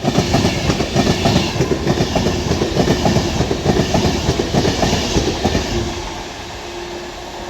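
Avanti West Coast Class 390 Pendolino electric train passing through the station: a rapid clatter of wheels over the rails with a steady hum, easing off after about five seconds.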